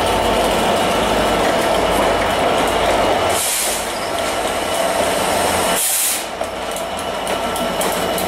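Network Rail test train pulled by Class 67 diesel locomotives rolling slowly past, with the steady drone of the locomotives' two-stroke V12 diesel engines and the coaches running on the rails; two short bursts of air hiss, about three and a half and six seconds in.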